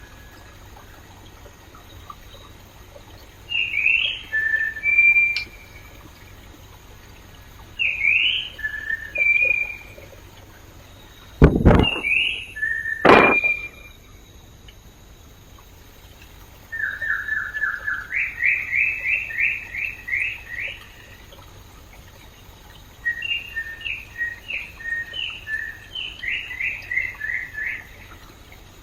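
A songbird singing several phrases of quick, high notes, the last two long rapid runs of notes, over the faint steady rush of a flowing stream. Two sharp clicks sound about halfway through.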